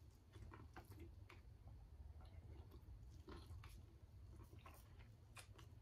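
Faint chewing of boiled corn on the cob, soft irregular clicks and smacks over a low steady hum.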